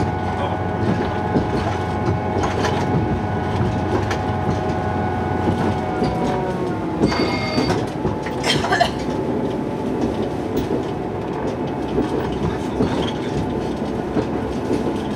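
Diesel railcar running along the track, with a steady engine hum and the clatter of the wheels over the rails. About six seconds in, the engine's tones slide down in pitch as it eases off, and brief high wheel squeals follow a couple of seconds later.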